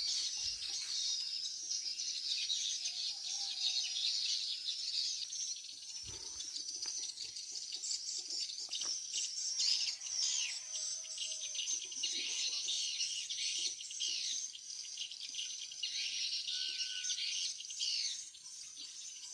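Many small birds twittering at once: a dense, unbroken stream of short high-pitched chirps, with a few fainter, lower gliding calls now and then.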